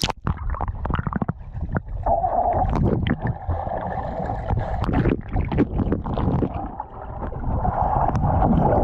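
Pool water heard from underwater through a submerged GoPro: a muffled, low rumble of moving water with bubbling, scattered clicks and thumps.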